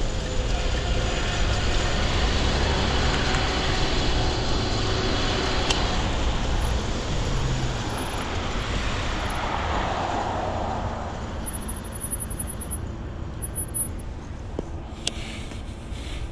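Wind rushing over the microphone, with tyre and road noise from an electric bike ridden at speed. It eases off somewhat in the last few seconds.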